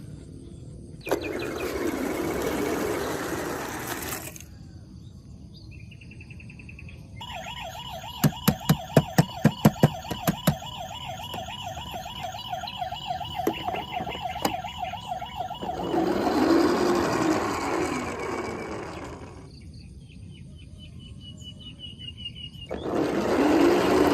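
Electronic toy-vehicle siren warbling for several seconds, with a quick run of about ten sharp clicks or knocks partway through. Bursts of rushing noise come before and after it.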